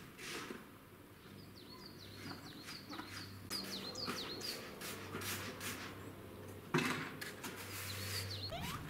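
Small birds chirping outdoors: a run of short, quick, falling chirps about two seconds in and a few more near the end, over a low steady hum. A single sharp knock sounds a little before the end.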